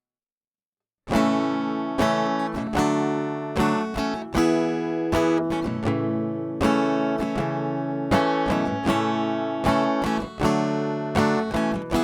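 Acoustic guitar intro: chords strummed and picked in a steady rhythm, starting about a second in.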